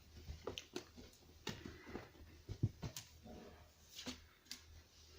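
Items being handled and set down: a scatter of light knocks and clicks with some rustling, the sharpest knock about two and a half to three seconds in.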